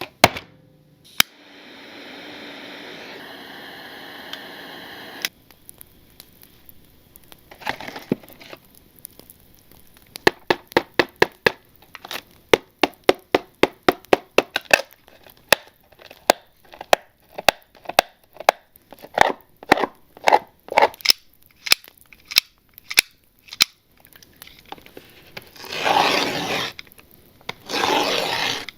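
Trading-card packaging handled for ASMR: a few seconds of a steady tone near the start, then a long run of sharp taps about two a second, then two loud crackling, crinkling bursts near the end.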